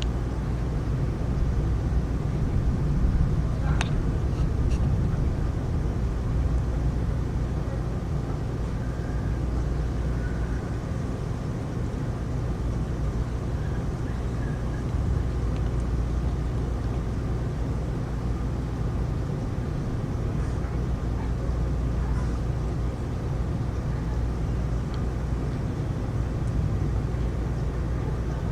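Heavy rain in a thunderstorm, a steady rushing noise with a deep low rumble under it, and one sharp click about four seconds in.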